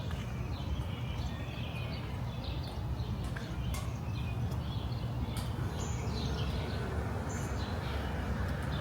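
Outdoor street ambience: a steady low hum of city background noise, with short bird chirps and light clicks scattered through it.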